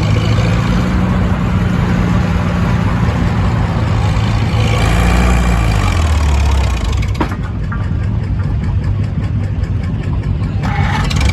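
A pulling tractor's engine running loud and hard. Its pitch drops about five to six seconds in, and it carries on at a lower note.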